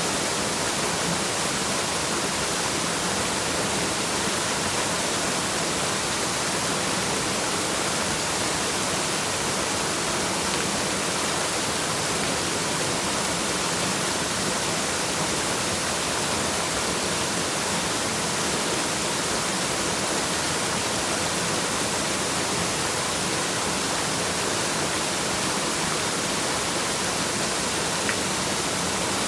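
Waterfall rushing: a steady, unbroken hiss of falling water with no changes.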